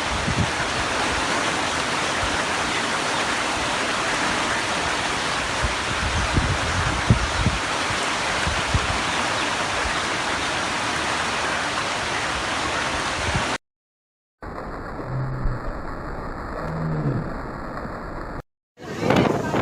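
Heavy rain pouring down in a summer storm, a steady, dense hiss. It cuts off suddenly about two-thirds of the way in, and a quieter stretch of rain with a few low sounds follows.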